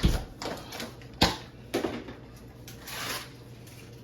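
Kitchen handling noises while the butter is being got ready for the sauce: several sharp clicks and knocks about half a second apart, then a short rustle about three seconds in.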